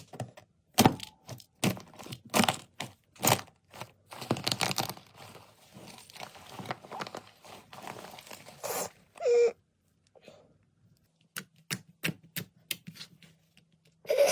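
Slime being squeezed and pressed by hand, giving sharp clicking pops and crackles. The pops come about once a second at first and grow into a denser crackle in the middle. After a short pause, a quick run of small clicks follows near the end.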